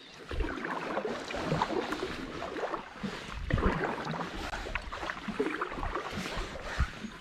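Water splashing and sloshing around a kayak on a river, in irregular bursts about once a second, with low rumbles mixed in.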